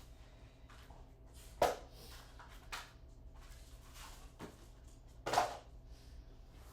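A few light knocks and clunks of wooden boards being handled and set in place, the two loudest under two seconds in and about five and a half seconds in.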